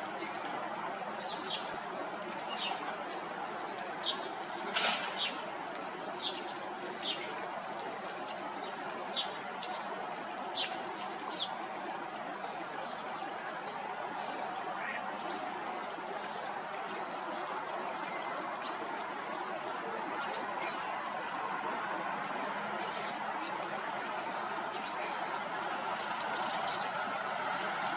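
Small birds chirping, with short high calls and a few quick runs of repeated notes, most of them in the first half, over a steady even background hiss.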